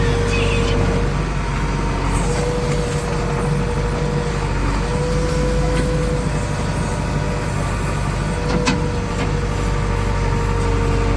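Diesel engine of a JCB 3DX backhoe loader running steadily under work, with a steady whine that drops out and comes back several times. A single sharp click comes near the end.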